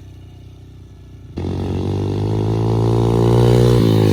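Small single-cylinder four-stroke engine of a kids' off-road machine. It is faint at first, then loud and close from about a second and a half in, held at high revs and climbing slightly, before the revs drop near the end.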